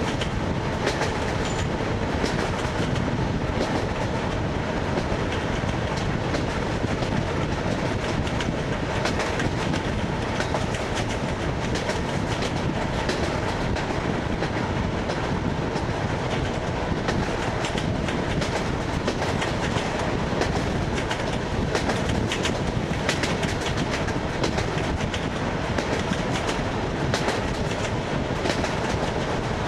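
ED9MK electric multiple unit running along jointed track, heard from inside the carriage: its wheels click over the rail joints above a steady running rumble.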